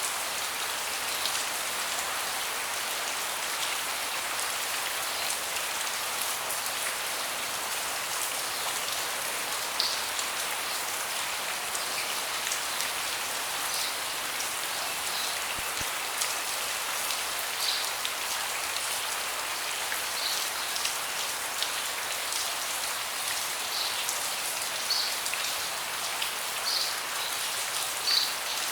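Steady rain falling on a deck, with occasional louder individual drops landing close by.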